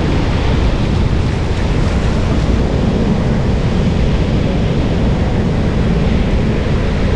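Wind buffeting the microphone, a steady low rumble, over the constant wash of water.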